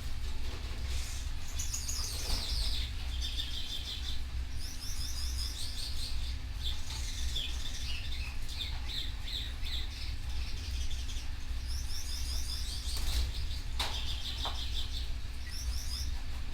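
Canaries chirping and singing in short, fast trilled phrases, repeated several times, over a steady low hum. A couple of short knocks come about two-thirds of the way in.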